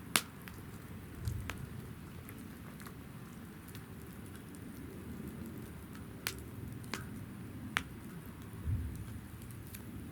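Wood fire burning in a campfire pit: a steady low rush of flames with sharp crackles and pops every second or so, the loudest right at the start, and two soft low thuds.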